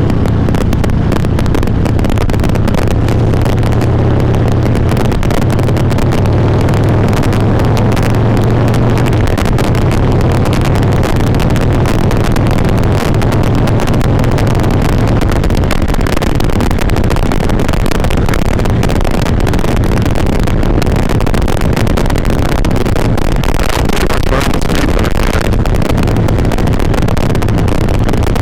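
Harley-Davidson V-twin engine running while riding, heard through a helmet chin mic with wind noise over it; the steady engine note eases about halfway through and comes back near the end. The recording is not clear, which the rider suspects is the mic processor clipping.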